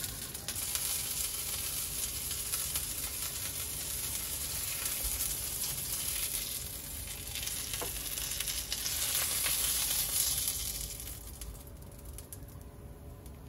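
Breaded cutlets sizzling as they shallow-fry in oil in a pan, turned with a spatula. The sizzle thins out near the end as a piece is lifted from the pan.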